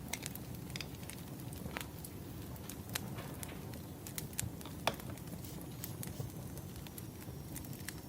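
Wood fire crackling: scattered sharp pops and snaps over a steady low rumble of burning logs, with one louder pop about five seconds in.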